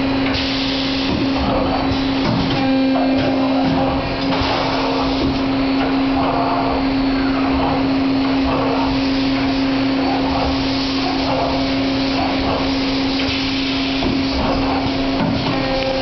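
CNC wire bending machine running: a steady motor hum with irregular whirring swells on top.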